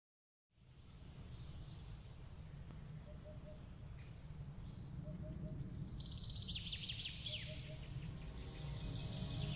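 Outdoor ambience fading in from silence: a low steady rumble with birds chirping, a few faint chirps at first, then many quick high chirps from about the middle on.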